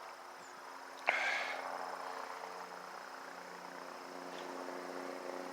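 Helicopter droning steadily as it circles overhead, a constant hum of several even tones, with a sharp click and a brief hiss about a second in.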